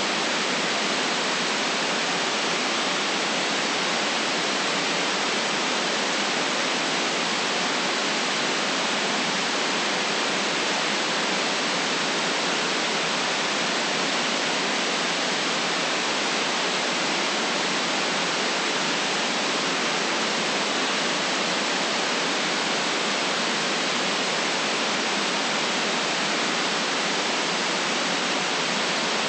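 Steady synthetic white noise: an even, unchanging hiss, filtered to cut off sharply below about 150 Hz and above about 8 kHz.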